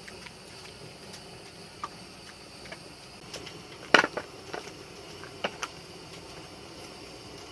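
Scattered small clicks and knocks over a steady background hiss, the loudest a short cluster about four seconds in.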